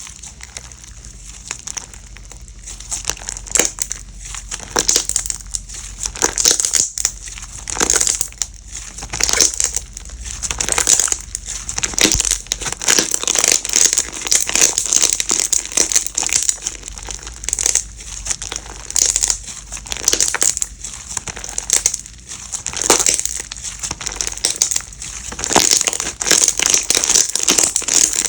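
Slime being squished and pressed by hand, giving a dense, irregular run of crackles and clicks.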